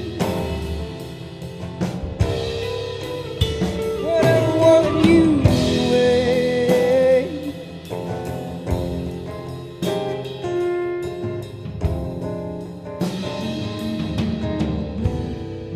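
Rock band playing an instrumental passage: drum kit hits under electric and acoustic guitars, with notes that glide in pitch about halfway through.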